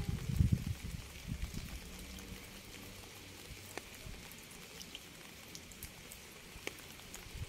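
Rain falling, a steady hiss with scattered individual drops ticking sharply. A low rumble dies away in the first second or so.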